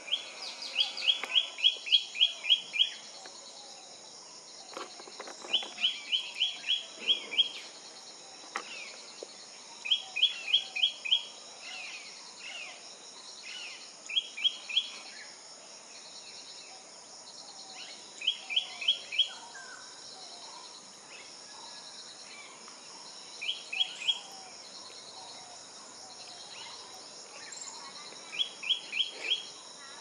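A bird giving bouts of sharp, rapid notes, six to eight at a time, repeated every few seconds: mobbing alarm calls at a land monitor lizard. A steady high insect drone runs underneath.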